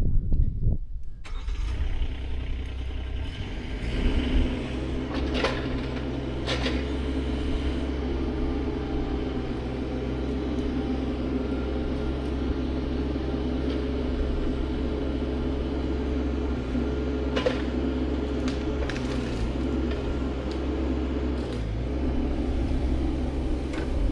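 An engine starts about a second in, rises, then runs steadily with a low hum, with a few sharp clicks over it.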